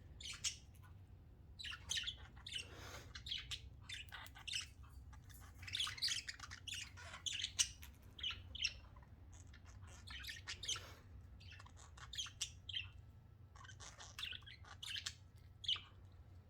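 Pet budgerigars chirping and chattering in many short, high calls scattered throughout, over a faint low steady hum.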